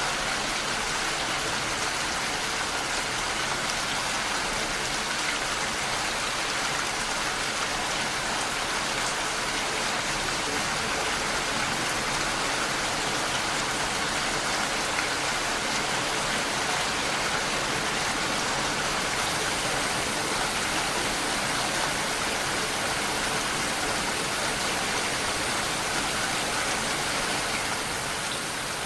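Steady rain falling, an even hiss of many raindrops.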